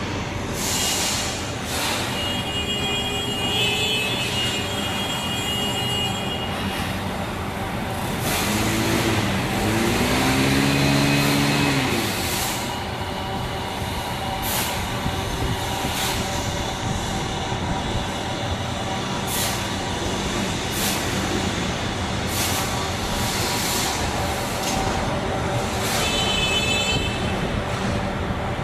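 Factory-floor machinery running steadily, with short hisses of compressed air every second or two. About eight seconds in, a motor revs up and back down over a few seconds.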